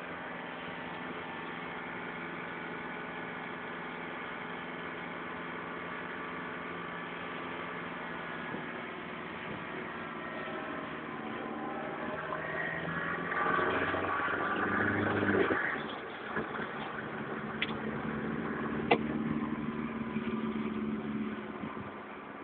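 Motor vehicle engines running steadily. Past the middle, the pitch of one rises and falls as it grows louder and passes, and two sharp clicks follow.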